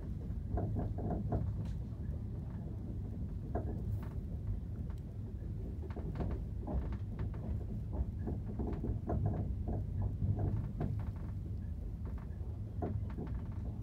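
Passenger train running, heard from inside the carriage: a steady low rumble with irregular knocks and rattles throughout.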